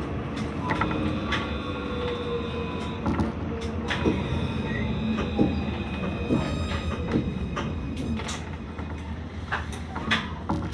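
A C Class (Alstom Citadis) tram running, heard from inside the car. There is a steady rumble of wheels and running gear, with scattered clicks and knocks from the rails and a slowly falling whine in the middle.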